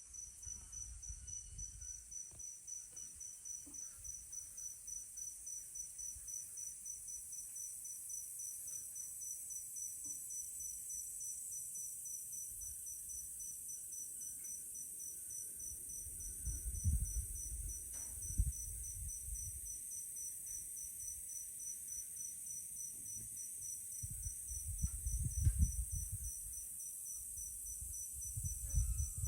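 Night insects, crickets, calling after sunset: a steady high-pitched trill with an evenly pulsed chirp over it, about three pulses a second. Low rumbles come and go twice, once in the middle and again near the end.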